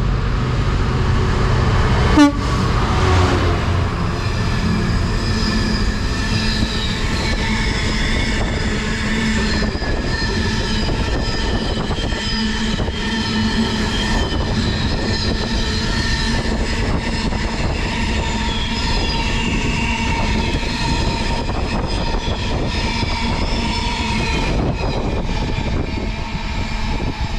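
A freight train hauled by a Freightliner Class 66 diesel locomotive passes through the station without stopping, its wagons giving a steady rumble of wheels on rail with ringing wheel tones throughout. There is one short, sharp, loud sound about two seconds in.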